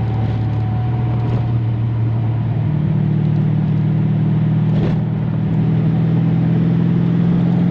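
Corvette V8 engine heard from inside the cabin while driving at highway speed, a steady hum whose pitch steps up about three seconds in and holds, over steady road and wind noise. The road noise comes from a door not shut all the way.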